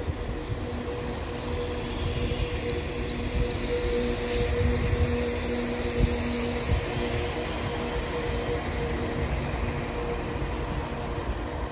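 A train running in a station platform: a steady mechanical hum with two held tones over a low rumble.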